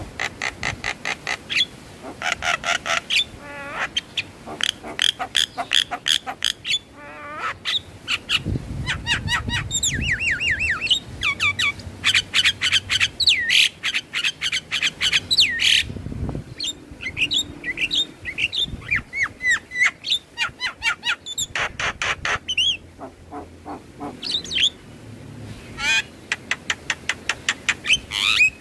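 Javan mynas calling: fast runs of sharp repeated chirps mixed with whistled notes that slide up and down, coming in bursts with brief lulls.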